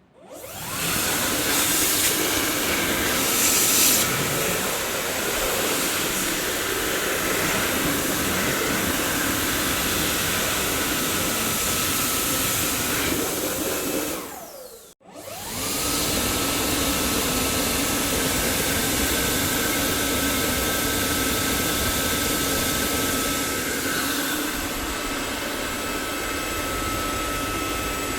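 Dyson vacuum cleaner switched on, its motor whine rising as it spins up to a steady roar of rushing air. Just before halfway it cuts out briefly, then spins up again and runs steadily.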